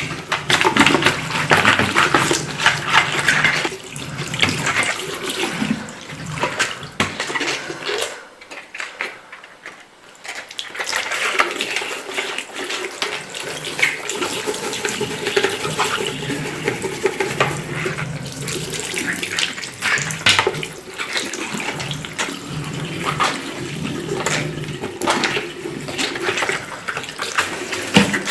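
Water running from a tap into a sink, easing off for a few seconds about a third of the way through and then running on again.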